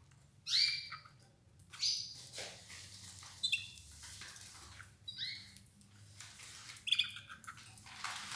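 Domestic canaries giving short call notes, five in all, about one every one and a half seconds, with faint scratchy noises between them.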